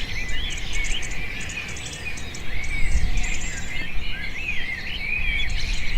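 Many small birds chirping and twittering together: a busy, continuous chorus of short high calls, over a low rumble.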